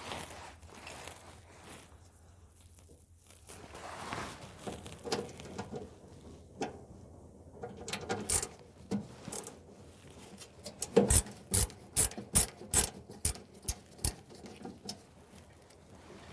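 Hand work on a dryer's sheet-metal panels and parts during disassembly: scattered light knocks and rattles, then a run of about eight sharp clicks, roughly two or three a second, in the second half.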